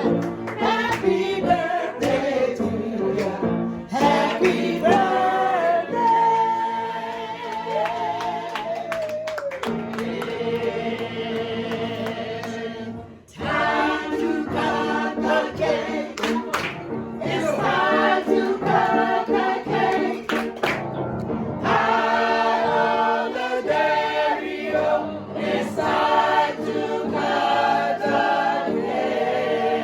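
Music: a choir singing in harmony with held, wavering notes, in a gospel style. There is a short break about thirteen seconds in, then the singing resumes.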